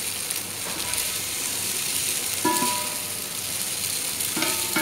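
Chicken strips sizzling in a nonstick frying pan while a spatula scoops them out into a metal bowl. A few held notes of background music come in about two and a half seconds in and again near the end.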